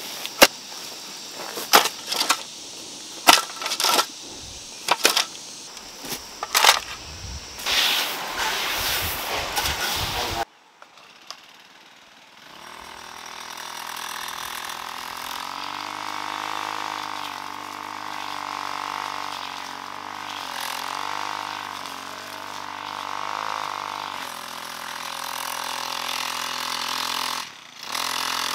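Sharp knocks roughly once a second, as of striking tools at work. After a cut, a small engine starts up and runs steadily, its pitch rising and falling slightly.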